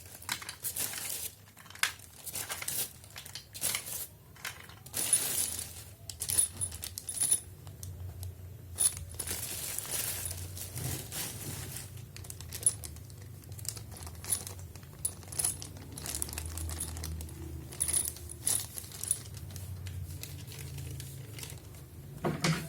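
Unboxing handling noise: packaging rustling and crinkling, with many small hard clicks and knocks at irregular intervals.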